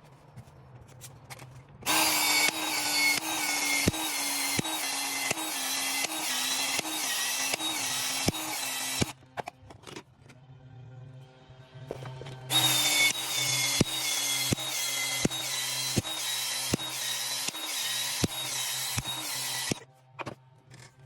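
A power tool, such as a drill or saw, runs in two long bursts of about seven seconds each with a pause between. Its pitch dips briefly at a steady rhythm, along with regular clicks.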